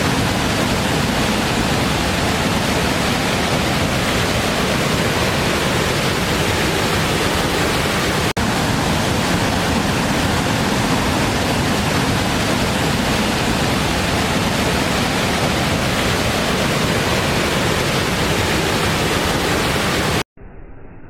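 Waterfall: a steady, even rush of falling water, with a split-second dropout about eight seconds in. Near the end it cuts off abruptly, and a much quieter, muffled rumble follows.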